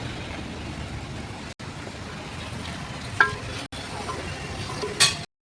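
Steady low rumble of road traffic, with two short, sharp clinks about three seconds in and near the end; the sound drops out briefly a few times.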